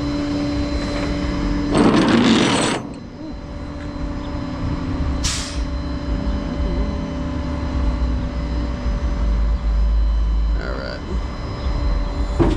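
Truck engine idling steadily with a low rumble, with a loud hissing burst about two seconds in and a short, higher hiss about five seconds in.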